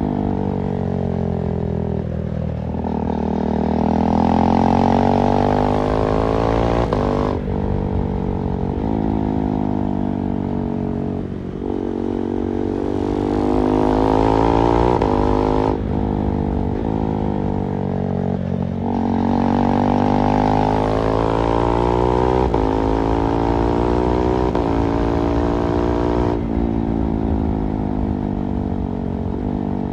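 KTM 390 Duke's single-cylinder engine under way. Its note climbs with the revs and drops sharply several times as the rider shifts gears and rolls on and off the throttle.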